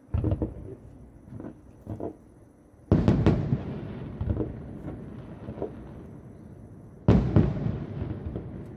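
Fireworks shells bursting about a kilometre away: a few smaller bangs in the first two seconds, then two big booms about three and seven seconds in, each trailing off slowly with scattered crackles.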